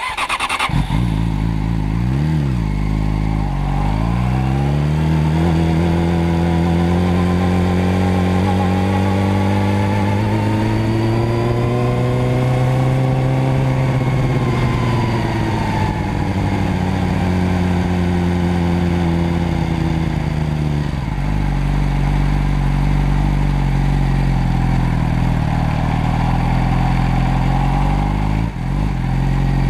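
Motorcycle engine running continuously, its pitch climbing slowly to a peak about 13 seconds in and easing back down, then holding steady for the last several seconds.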